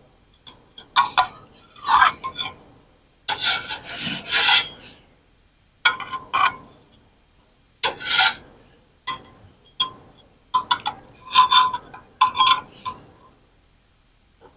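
A kitchen utensil scraping against a baking pan in a series of irregular strokes, prying cut baked biscuits loose and lifting them out to cool.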